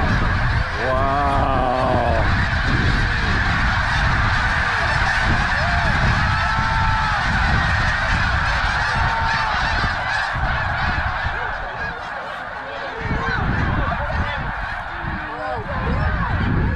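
A huge flock of snow geese calling together in a dense, continuous chorus of overlapping honks, with a few single calls standing out. Wind rumbles on the microphone underneath.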